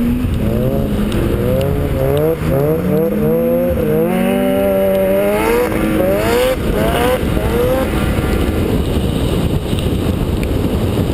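Car engine heard from inside the cabin, its pitch rising and falling again and again with the throttle during hard driving, over a steady hiss of tyre spray from wet tarmac. After about eight seconds the engine tone fades and the hiss takes over.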